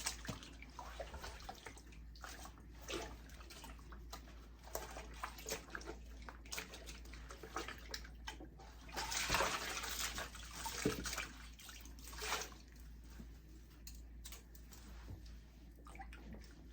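Water sloshing and splashing in irregular bursts as a wig is worked by hand in a basin of water, loudest about halfway through.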